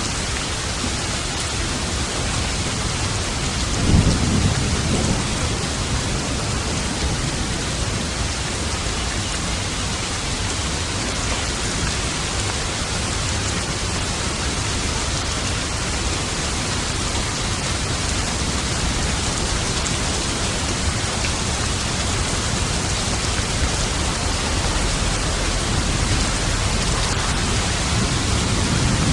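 Steady rain with a clap of thunder about four seconds in that rumbles for a second or two, and a low roll of thunder building near the end.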